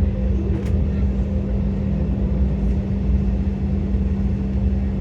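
Steady cabin noise of an Embraer E-Jet on the ground with its jet engines at idle: a constant low hum over a rumble from the airframe while taxiing.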